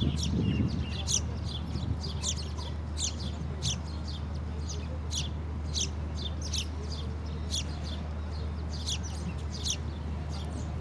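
Small birds chirping: short high calls that sweep downward, repeated about twice a second, over a steady low hum.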